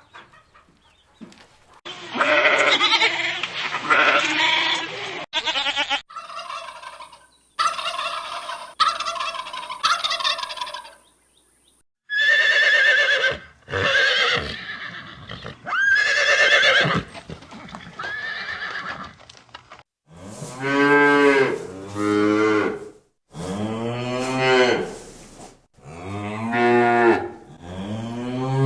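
Farm animal calls from several short clips one after another, each stretch with a different kind of call; in the last third, loud calls about a second long that rise and then fall in pitch.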